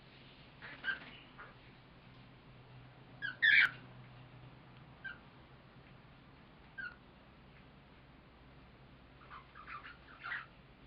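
Cockatiel giving short, scattered chirps, the loudest about three and a half seconds in and a quick cluster near the end.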